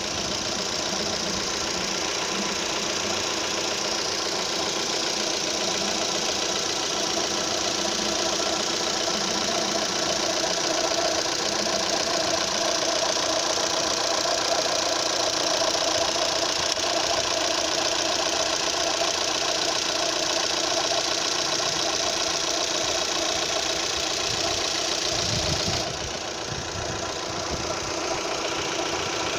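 Opel Z18XER 1.8-litre four-cylinder petrol engine idling with an odd noise that the owner puts down to the camshaft phaser and hears only at idle. The sound turns duller near the end, after a few low thumps.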